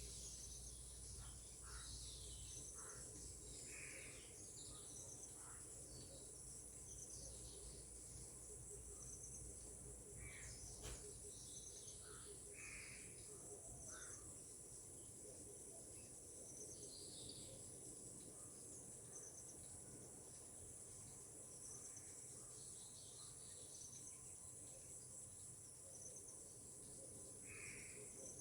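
Steady high-pitched chorus of insects, crickets or similar, with short bird calls breaking in now and then, a few seconds apart, all faint.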